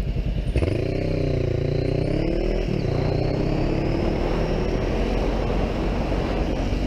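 Motorcycle engine pulling through the gears: its pitch climbs, drops at a gear change about two and a half seconds in, then climbs slowly again, over steady wind and road noise.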